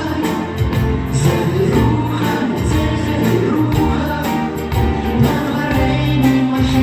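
Live performance by a vocal-instrumental ensemble: singing over band accompaniment with a steady beat.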